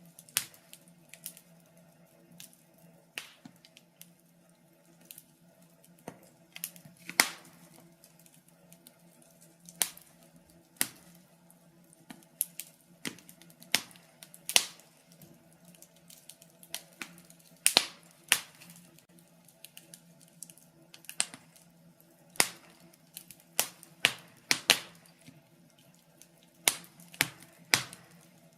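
Wood fire crackling in a fireplace: sharp, irregular pops and snaps at uneven intervals, some louder than others, over a faint steady low hum.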